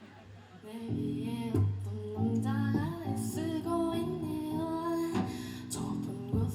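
Live song with guitar and a singing voice, starting about a second in after a quiet moment.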